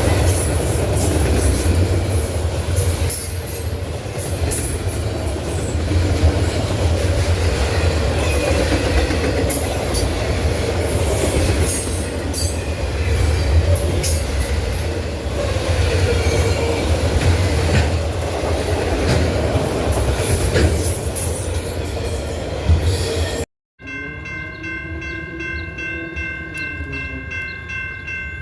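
A train passing close by, its wheels rumbling and clattering on the rails with many sharp clicks. After a sudden cut, a locomotive horn sounds a steady multi-note chord, with a lower tone rising and falling beneath it.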